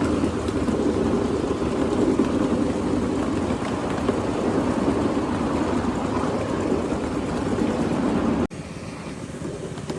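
Steady rumbling ride noise of a miniature live steam train in motion: wheels on the track mixed with wind. It cuts off suddenly about eight and a half seconds in, and a quieter rumble follows.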